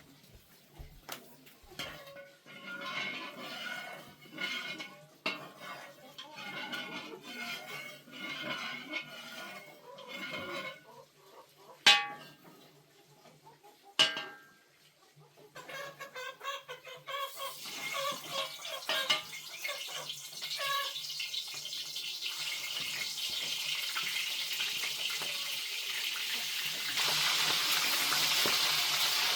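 Cooking sounds: utensils clinking against a pot, with two sharp metal clanks a couple of seconds apart midway. Then food frying in hot oil, the sizzling building steadily and growing louder near the end.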